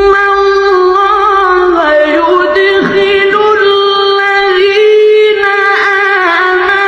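Melodic Quran recitation by one high-pitched voice, holding long, drawn-out notes with ornamented turns and slides in the chanted style of tajwid, without accompaniment.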